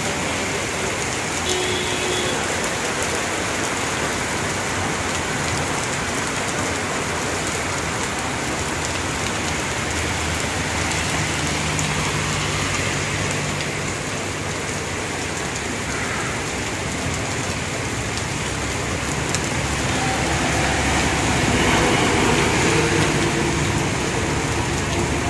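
Steady rain falling on a wet road. A motor vehicle's engine is heard passing around the middle and again near the end, where the sound grows a little louder.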